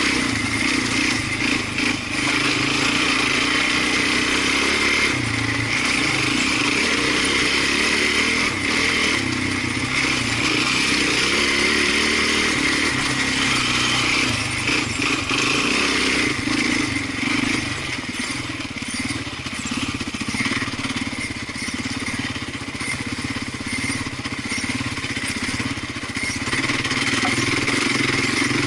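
An off-road vehicle's engine running under way on a trail ride, its pitch shifting as the throttle changes. It eases off somewhat past the middle.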